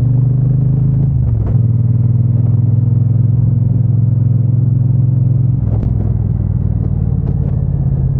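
Triumph Bonneville T120's parallel-twin engine and exhaust running steadily under way. The engine note dips briefly about a second in and changes again near six seconds.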